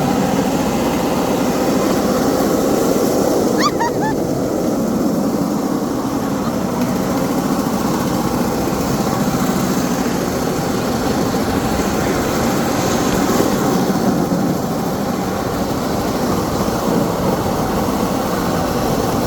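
Steady, loud rumbling noise like a running vehicle or machine, with a brief high chirp or squeak about four seconds in.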